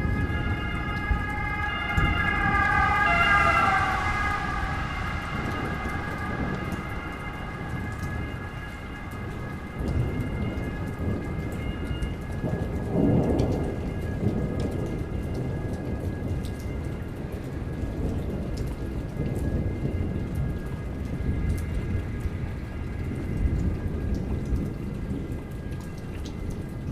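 Heavy rain falling and pattering on surfaces during a thunderstorm, with thunder rumbling low throughout and swelling about halfway through. A wavering high pitched sound rises over the rain in the first few seconds and fades.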